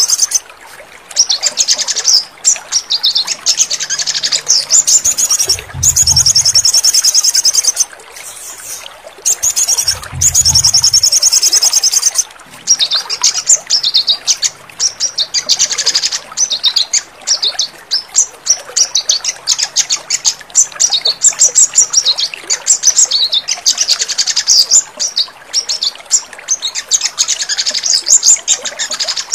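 Sogon birds singing rapid, high trills and chirps, almost without pause: a recorded song track played to caged sogon birds that have stopped singing, to get them singing again. A low sound comes in twice in the first half.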